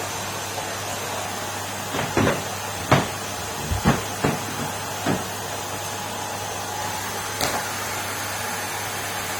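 Numatic Henry vacuum cleaner running steadily, with a run of short sharp knocks about two to five seconds in and one more later on.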